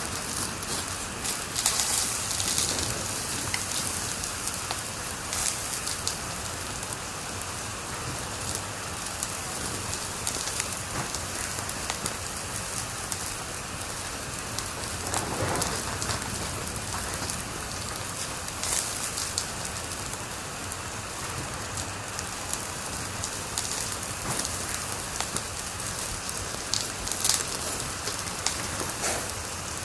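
Wood fire crackling in a fireplace: a steady hiss dotted with small crackles, and a few louder pops and snaps now and then.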